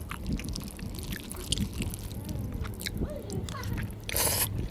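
Close chewing and biting of food, with many small wet mouth clicks. A short, louder burst of noise comes about four seconds in.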